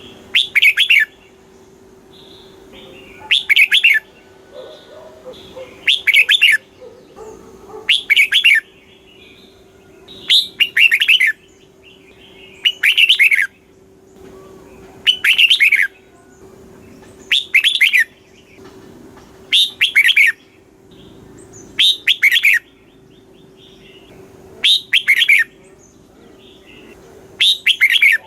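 Red-whiskered bulbul singing the same short phrase over and over, about once every two and a half seconds. Each phrase is a quick run of falling notes, with a faint steady hum underneath.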